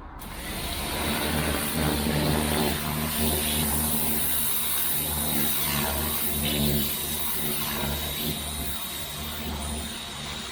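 Sun Joe electric pressure washer running, its pump motor humming steadily under the hiss of its water jet spraying onto a stained deck. It starts suddenly and eases off a little near the end.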